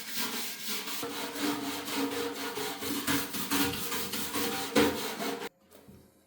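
Quick, repeated back-and-forth rubbing strokes of hand abrasive work on a part, which stop abruptly near the end.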